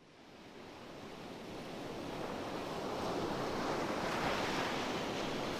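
Steady wash of ocean surf, fading in from silence over the first few seconds.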